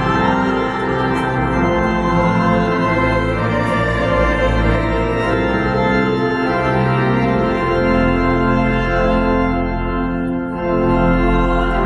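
Church organ playing slow, sustained chords over a deep bass line, with the notes shifting every second or two.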